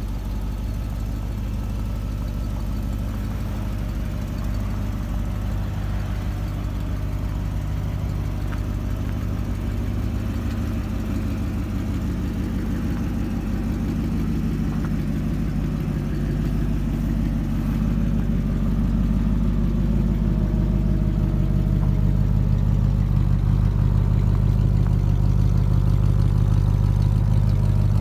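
1965 Oldsmobile 442's 400 cubic-inch V8 idling steadily with a low, even exhaust note, growing louder in the second half as the tailpipes come closer.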